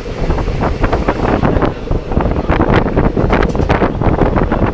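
Wind buffeting the microphone over the rumble of a moving passenger train, with frequent short knocks and rattles from the carriage and track.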